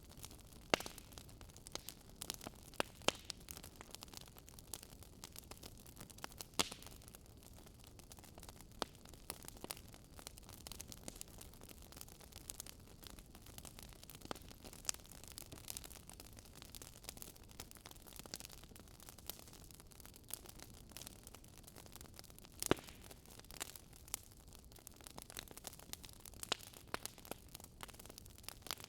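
Crackling wood fire: a steady faint hiss with irregular sharp pops and snaps, the loudest pop about three-quarters of the way through.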